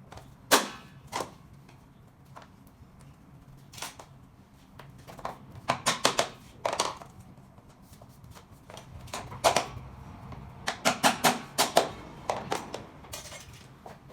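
SPC stone-plastic floor planks being knocked into place, sharp hard taps that come singly and in quick runs of four to six, the clicks of the joints being seated.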